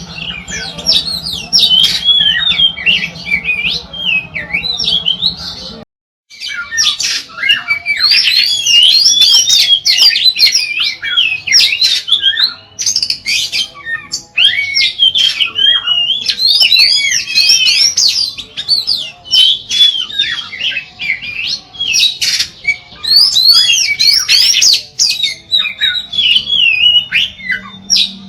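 Oriental magpie-robin (kacer) singing a continuous, loud run of rapid whistled and chattering notes, full song with long clear phrases. There is a brief break about six seconds in, after which the song carries on.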